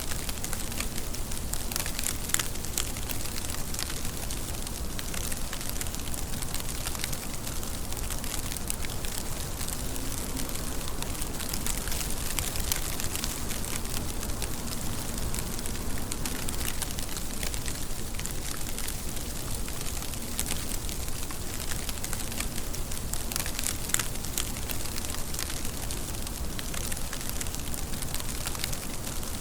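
Steady rain falling, with individual drops striking a surface as a dense pattering of sharp taps; a few louder drops stand out, one about two seconds in and one near the end.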